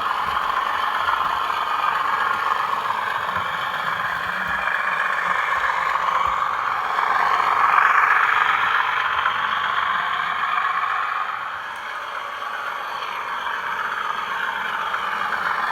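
Bachmann OO gauge Class 37 model locomotive running on the layout, its DCC sound decoder playing a diesel engine sound through a bass-enhanced speaker, mixed with the model's own running noise. It grows louder about eight seconds in and eases off again after about twelve seconds.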